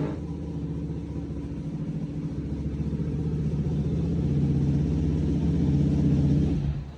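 Suzuki DR-Z400 single-cylinder four-stroke engine running hard on a chassis dyno through an MRD exhaust. It grows louder over about six seconds, then drops off sharply near the end as the throttle is closed.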